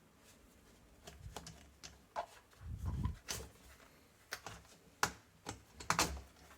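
Scattered light clicks and taps of hands fitting fuel hoses and the carburettor on a small two-stroke string trimmer, with a duller low knock about three seconds in.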